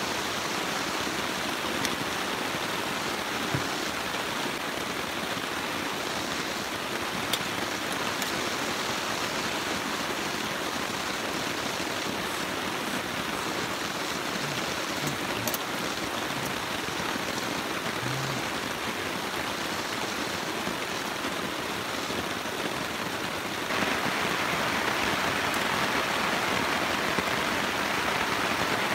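Steady rainfall, an even hiss with a few scattered drips, growing suddenly louder about 24 seconds in.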